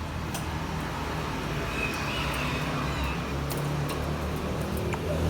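Steady low rumble of road traffic in the background, with a few light clicks.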